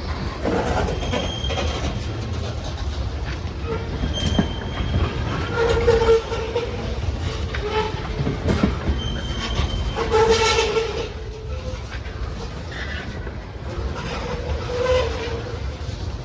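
Norfolk Southern loaded grain train rolling slowly past at about 12 mph: a steady rumble of the cars with wheel clicks and short wheel squeals every few seconds.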